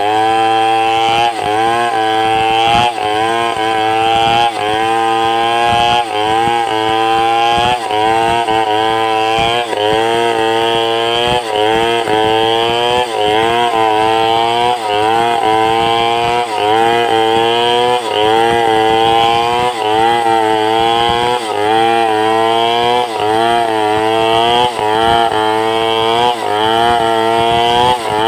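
Two-stroke chainsaw running at high revs while ripping timber into planks, its pitch sagging and recovering about once a second as the chain bites into the wood.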